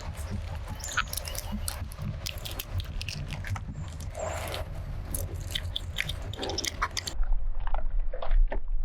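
Close-miked wet chewing of soft, chewy Maoam candy: a quick run of sticky mouth clicks and smacks as the sweets are bitten and worked. About seven seconds in the sound turns duller and louder, with a low rumble underneath.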